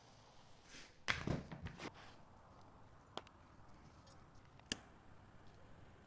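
A quick cluster of sharp scrapes and knocks about a second in, then two single sharp clicks, over a faint hiss.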